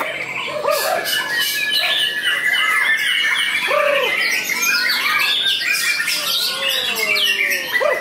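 White-rumped shama (murai batu) singing a varied song of whistled notes, squawks and a fast trill.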